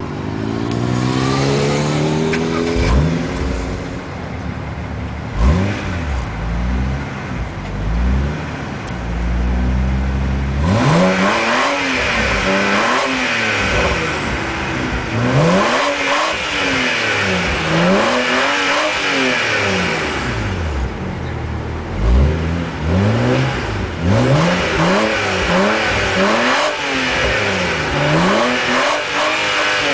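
BMW 135i turbocharged 3.0-litre straight-six through an ARQRAY aftermarket exhaust, revved again and again. The engine note rises and falls about every two seconds, with the pitch dropping away at the start.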